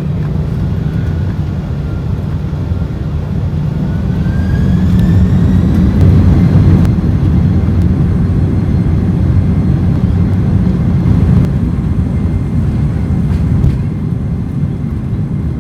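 Boeing 767-300ER jet engines spooling up for takeoff: a loud, steady rumble, with a whine that rises in pitch from about four seconds in as the thrust and loudness build, then holds steady.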